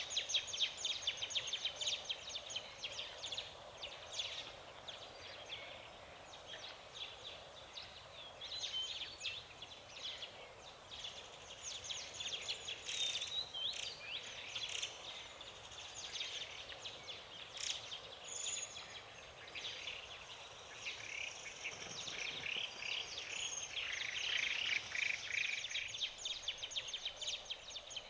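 A chorus of several forest songbirds, with short chirps and song phrases overlapping almost continuously, busier in places.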